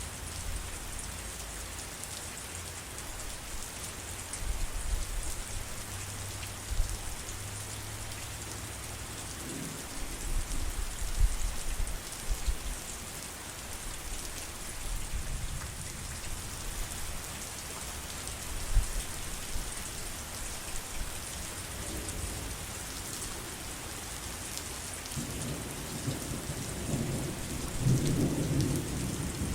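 Steady heavy rain falling, with rolling thunder rumbling low underneath, swelling strongest near the end.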